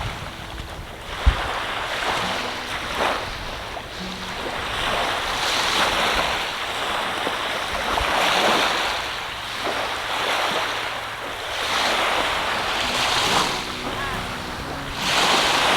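Ocean waves washing onto the shore, the surf swelling and fading every two to three seconds, with wind buffeting the microphone. A single sharp knock about a second in.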